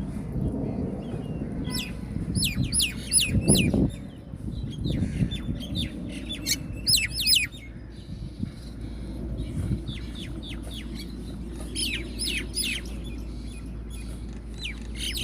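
Songbirds chirping in quick bursts of short, sweeping notes that come and go every few seconds, over a steady low background noise.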